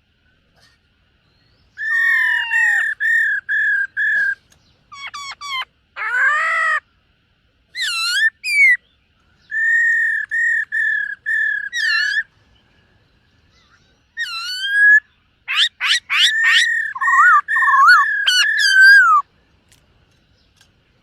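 Black-throated laughingthrush singing loud, clear whistled phrases: runs of repeated notes mixed with quick rising and falling glides, in several bouts separated by short pauses.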